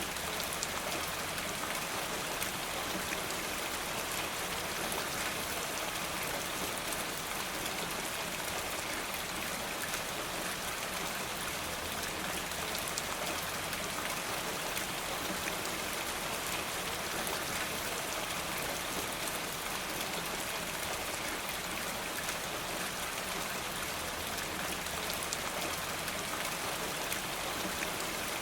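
Steady rain falling, a dense even patter of drops with no change in strength.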